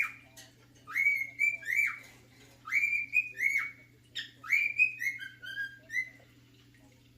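Cockatiel whistling a learned tune: the same short phrase of clear, upward-swooping notes three times, the last run longer and stepping down in pitch near the end. A faint steady hum lies underneath.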